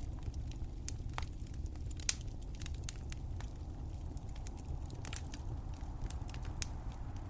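Wood fire crackling, with irregular sharp pops and snaps over a steady low rumble, one louder pop about two seconds in.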